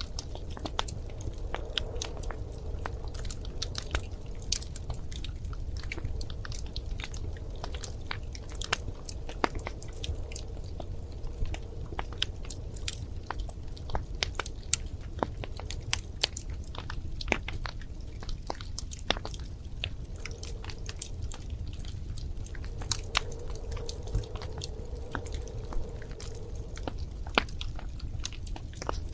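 Wood fire crackling in a fireplace: sharp pops and snaps at irregular intervals, several a second, over a steady low rumble of the flames.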